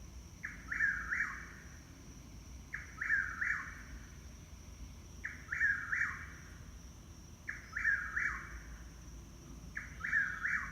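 A bird calling over and over: the same short call of three quick notes, about every two seconds.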